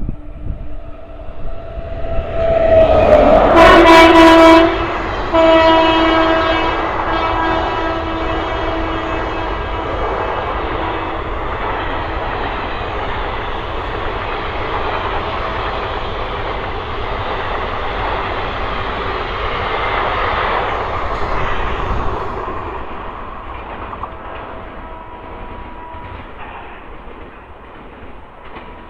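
Indian Railways WAP-7 electric locomotive sounding its horn as the express approaches, loudest about three to five seconds in, with a short break before it sounds again more weakly. The rumble of the passing train follows and fades away over the last several seconds.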